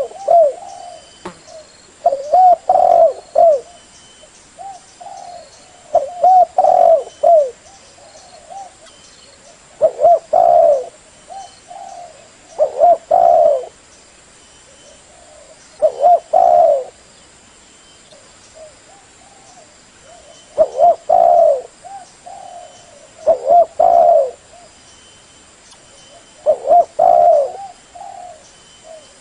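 Spotted dove cooing: phrases of several low, bubbling coos, repeated about every three to four seconds.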